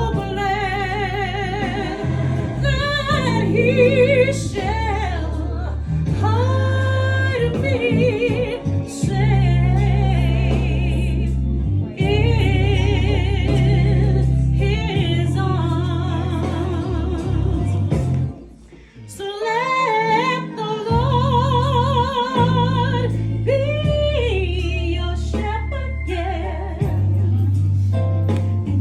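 Gospel music: sung vocal lines with strong vibrato over a steady bass accompaniment, with a brief near-pause about two-thirds of the way through.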